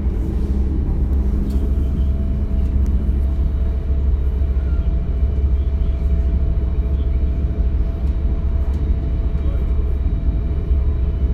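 Inside a DB Class 425 electric multiple unit under way: a steady low rumble of the running gear on the track, with a faint steady whine joining in about a second and a half in.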